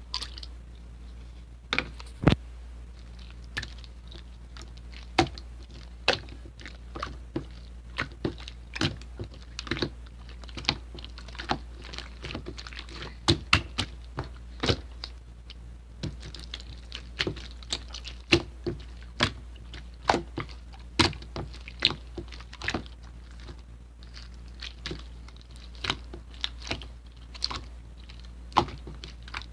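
Irregular light taps and clicks, about one or two a second, some louder than others, over a steady low hum.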